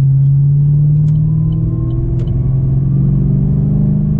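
Supercharged 6.2-litre LSA V8 of an HSV VF Commodore cruising under light throttle: a steady engine drone whose pitch rises slowly, with a faint supercharger whine above it.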